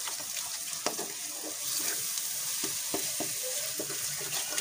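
Onion, tomato and spice masala sizzling in oil in a wok over raised heat as it is fried (bhuna), with a spatula stirring and clicking irregularly against the pan.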